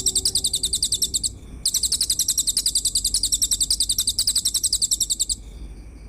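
Rapid, high-pitched pulsed animal trill of about a dozen pulses a second from a songbird-training recording. It breaks off briefly about a second in, then runs on until it stops near the end, leaving fainter, steadier high notes.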